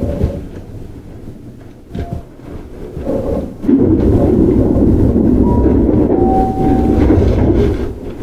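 Running noise of a Keihan 9000 series electric train (Toyo GTO-VVVF) heard aboard. It starts as a quieter rumble with a single click about two seconds in. A little under four seconds in it jumps suddenly to a loud, steady rumble, with brief whining tones over it.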